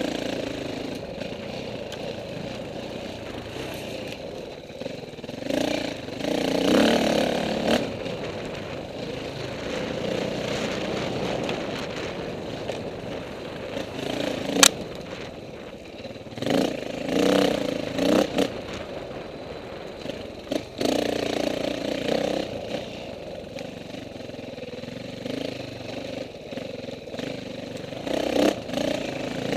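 Off-road dirt bike engine revving up and backing off again and again, surging loudest in several bursts, with one sharp knock about halfway through.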